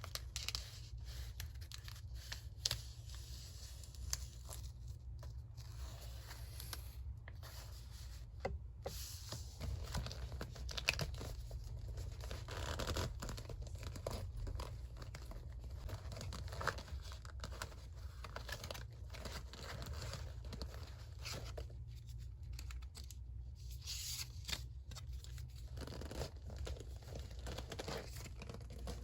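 Paper being torn by hand and handled: rough tearing and crinkling with scattered small clicks, over a steady low hum.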